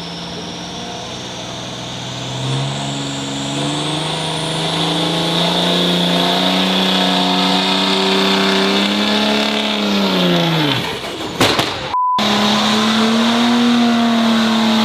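Diesel pickup truck engine pulling hard at high revs, its pitch climbing slowly over about nine seconds, with a high whistle also climbing, then falling away about ten seconds in. After a brief break the engine is heard again at high revs.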